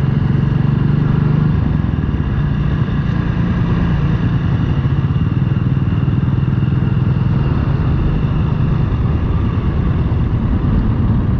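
Motorcycle engine running steadily, its pitch holding nearly level throughout.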